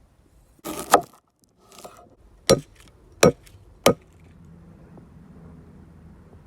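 A short rustling scrape ending in a sharp knock about a second in, then three sharp wooden knocks or chops about two-thirds of a second apart.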